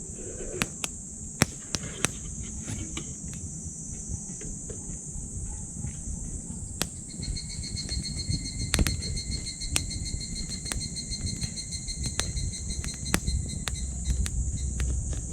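Wood fire in a small titanium wood stove crackling with scattered sharp pops over a low steady rumble, while insects chirr in a steady high drone. A second, thinner steady insect-like tone joins about halfway through and stops near the end.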